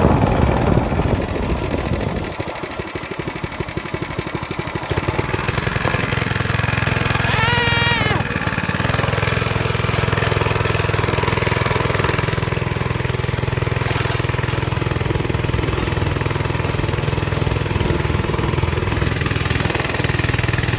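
Small mini-bike engine running, easing off about two seconds in and picking back up to a steady drone around five seconds in. A brief high wavering sound rises and falls near the middle.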